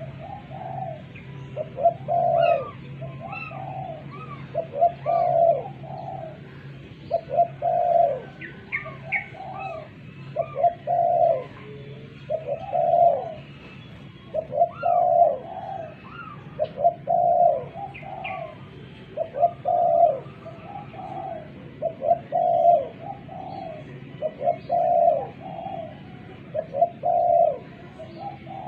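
Spotted dove (tekukur) cooing over and over, a short phrase of several notes about every two seconds. Faint higher chirps of other small birds and a steady low hum lie underneath.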